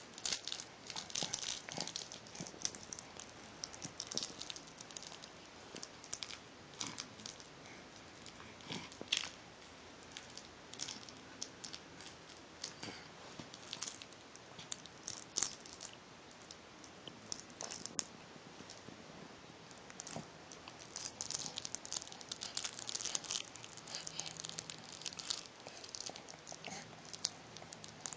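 A pet chewing on a toy: irregular short clicks and crackles of teeth working on the toy, coming in uneven clusters.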